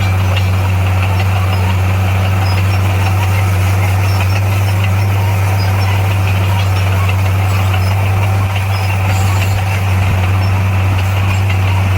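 Heavy earthmoving machine's diesel engine running at a steady speed, a loud low drone with faint clicks and rattles above it.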